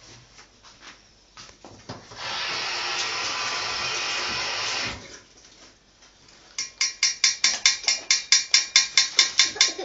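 A ring-necked parakeet rapidly knocking a dish, a fast run of ringing clinks about six a second that starts about two thirds of the way in. Before that, a steady hiss lasts about three seconds.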